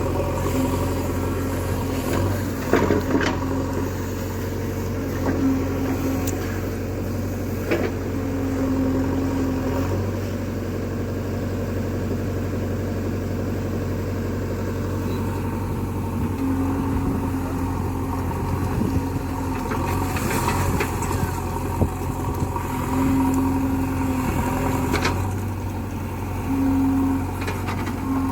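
Diesel engine of a JCB backhoe loader running steadily at work. A steady whine comes and goes several times, and a few sharp knocks sound along the way.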